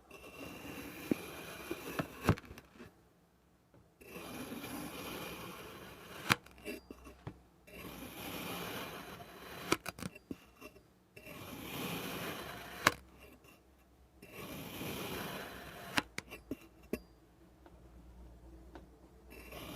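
Kinetic sand being cut in a series of grainy, crunchy scraping strokes, each a second or two long, with sharp clicks between some of the strokes.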